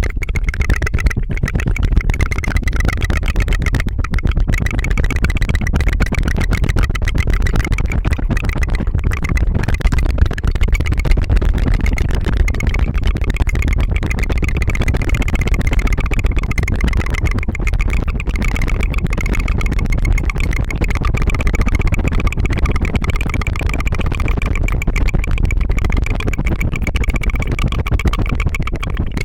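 A person's tongue fluttering as a rapid, continuous rolling trill into a close microphone, an engine-like 'brrr' that holds without a break.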